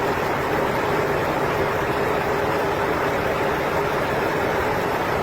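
A truck engine running steadily, a constant drone over a wash of noise.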